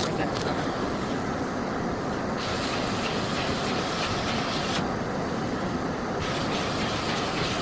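Miele Blizzard CX1 bagless cylinder vacuum cleaner running steadily under suction. A brighter hiss comes and goes a few times as the floor head works.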